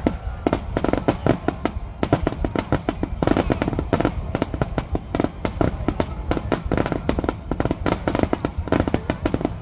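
A rapid barrage of fireworks shells bursting, several sharp booms and cracks a second with no break, over a continuous low rumble.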